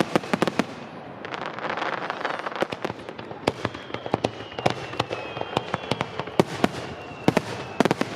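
Aerial fireworks bursting at close range: a rapid, irregular run of bangs and crackling pops, with a rushing hiss swelling about a second in and a faint high whistle in the middle.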